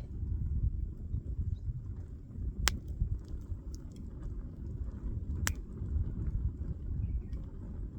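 Wood campfire burning: soft crackling with two sharp pops about three seconds apart, over a low rumble.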